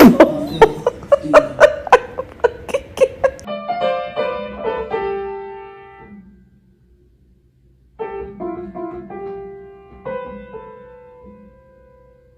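Piano notes: a fast run of hard-struck notes for the first few seconds, then slower notes left to ring and fade. After a gap of about two seconds, a few more notes are played and held.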